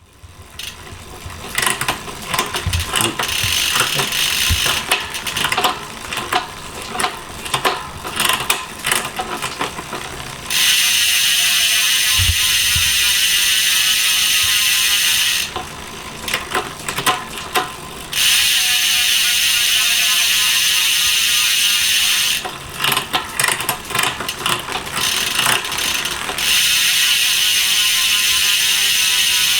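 Road bike drivetrain with Shimano Ultegra Di2 electronic shifting and a LUN Hyper 50 wheel's freehub: stretches of irregular drivetrain clicks from the gear changes alternate with three spells of loud, steady freehub ratchet buzz as the wheel coasts, each lasting several seconds.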